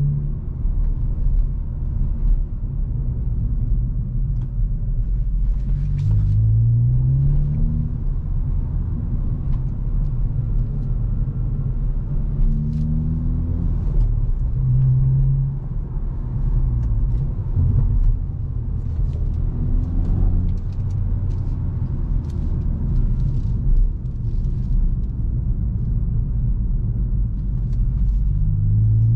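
Hyundai i20 N's turbocharged 1.6-litre four-cylinder engine and exhaust under way with a deep, steady rumble. The engine note rises in pitch in several short pulls as the car accelerates, with steadier cruising between them.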